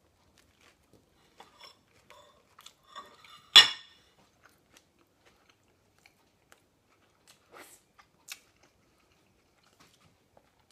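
A person chewing a mouthful of hamburger with lettuce and pickles: faint, scattered crunching and mouth sounds. One sharp clack about three and a half seconds in is the loudest sound.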